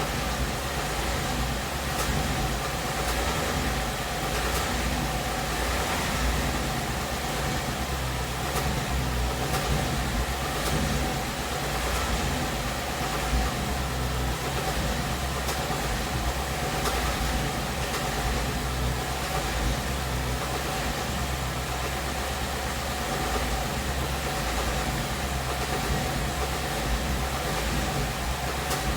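2017 Mustang GT's 5.0 L V8 running steadily, with a light ticking over the engine note. The owner takes the tick for an engine knock, which Ford calls normal.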